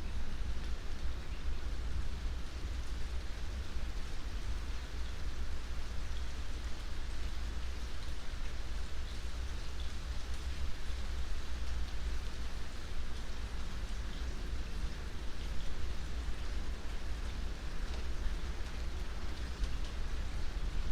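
Steady rain falling: an even hiss with scattered faint drop ticks over a constant deep rumble.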